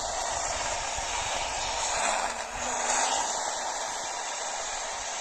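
Radio receiver static: a steady hiss with no station coming through, and a faint low tone sliding briefly about two seconds in.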